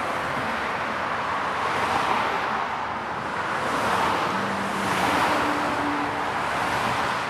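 Cars passing by on a road: a steady tyre-and-engine hiss that swells several times as vehicles go past, with a faint low engine tone about halfway through.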